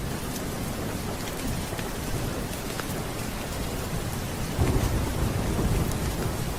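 Steady rain with a low rumble of thunder that swells up about two-thirds of the way in and rolls on.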